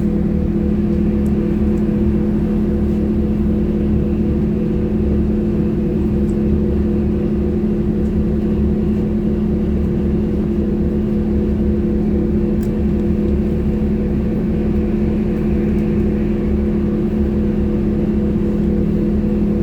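Sinara-6254 trolleybus running between stops: a steady electric hum made of several unchanging tones over a constant low road rumble.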